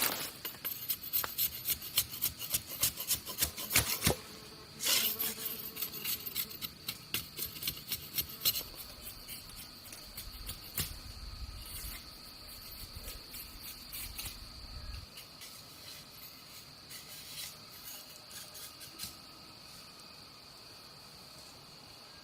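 Rapid sharp taps or clicks for the first several seconds, then an insect's steady high-pitched trill that continues on its own to the end.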